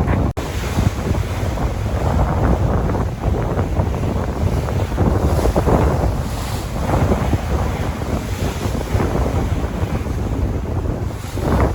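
Sea waves washing in and out in slow surges, with strong wind buffeting the microphone as a heavy low rumble. There is a momentary dropout about a third of a second in.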